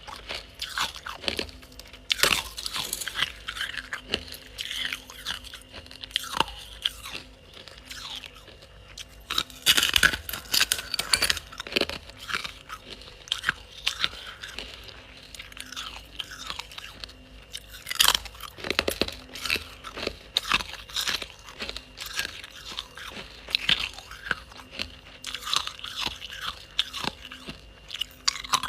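Ice being bitten and chewed close to the microphone: dense, irregular crunching and crackling, with a few louder bites.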